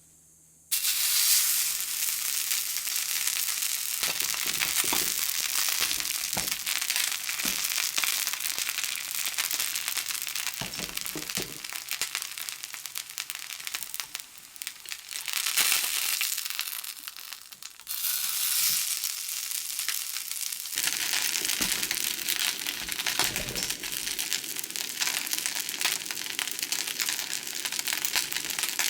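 A steady crackling hiss that starts abruptly about a second in, strongest in the high range, with a dip in the middle.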